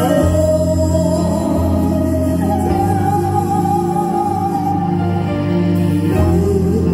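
A woman singing a song, holding a long wavering note that steps up to a higher one about two and a half seconds in, over a steady low instrumental accompaniment.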